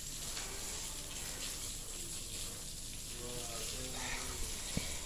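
Steady hiss with faint voices in the background and a single sharp click near the end.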